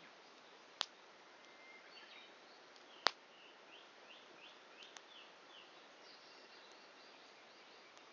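Wood fire burning down toward embers, popping sharply twice, just under a second in and again, louder, about three seconds in, with a fainter pop near five seconds. Between the pops a bird gives a run of short chirps against a quiet outdoor hiss.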